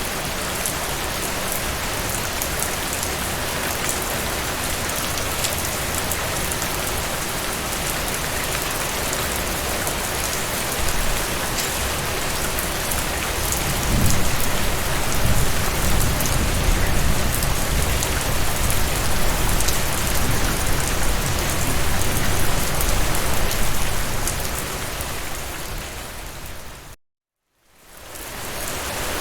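Steady heavy rain falling on a surface. About halfway through, a low rumble of thunder swells and lasts roughly ten seconds before dying away. Near the end the sound fades out to full silence for under a second, then fades back in.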